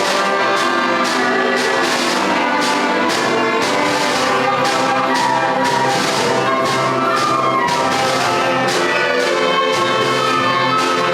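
Upper-primary school concert band playing a piece: sustained brass and woodwind notes over a steady percussion beat of about two strokes a second.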